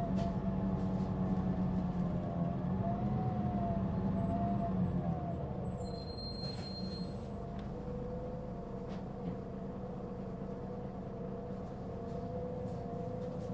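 Mitsubishi Fuso Aerostar city bus heard from inside the cabin, its diesel rumble fading over the first half as it eases off. A wavering whine runs on throughout: the strong abnormal noise this particular bus made. A faint high tone sounds briefly about halfway through.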